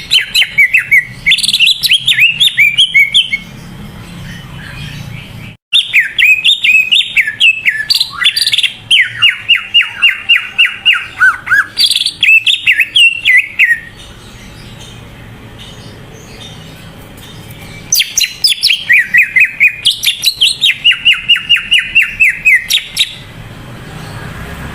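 Cucak ijo (green leafbird) singing vigorously: loud, rapid phrases of quick, repeated downward-sweeping notes, in three bursts with short pauses between them.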